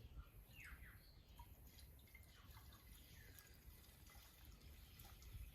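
Near silence with faint dripping and trickling: fuel being poured into the hedge trimmer's tank.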